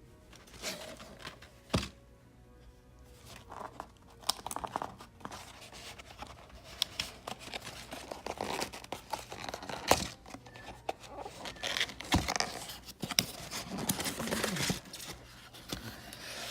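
Packaging being opened and unpacked by hand: irregular tearing, crinkling and rustling of wrapping and cardboard, with scattered sharp knocks, the loudest about two seconds in and again near ten seconds.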